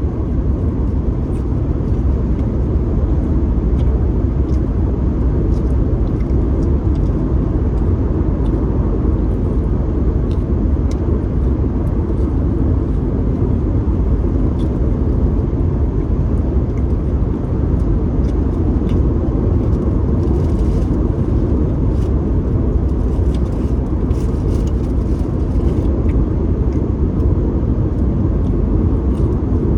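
Steady low rumble of a running vehicle, with faint scattered clicks over it.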